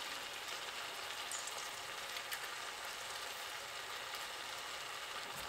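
Shrimp, vegetables and rice frying in a wok, a steady gentle sizzle with a couple of faint crackles.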